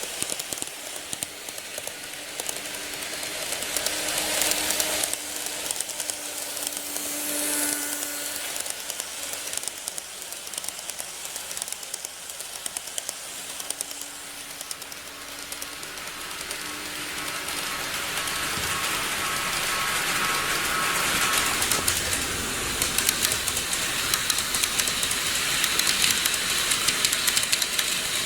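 Model trains running on the layout track: a fine clicking rattle of small wheels on rail with a faint motor hum. It grows louder over the last ten seconds as a train comes closer.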